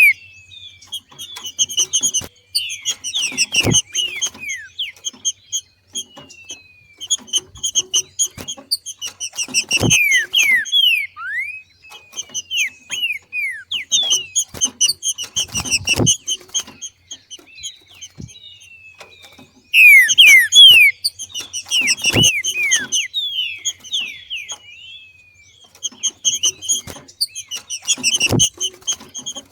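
Green-winged saltator (trinca-ferro) giving its 'macheado' breeding call: bouts of rapid, sharp chirping notes, many falling in pitch, repeated about every six seconds with brief pauses between.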